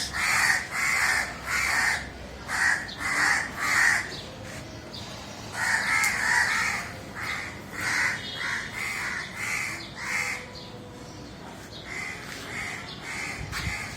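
A crow cawing over and over in runs of short, harsh calls, growing fainter over the last few seconds.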